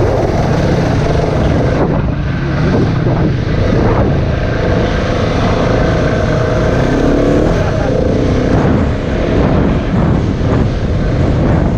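Single-cylinder dirt bike engine running under way, its pitch rising and falling with the throttle, with heavy low rumble on the microphone.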